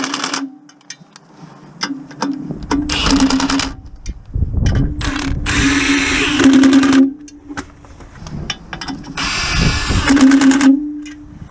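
Cordless power tool run in three bursts, a fast hammering rattle over a steady motor hum, as fasteners are driven during a clutch job.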